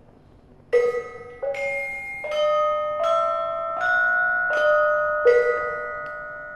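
Gamelan bronze metallophones playing a slow melody: single struck notes, about one every three-quarters of a second, each ringing on and overlapping the next. The notes start under a second in, after a brief hush.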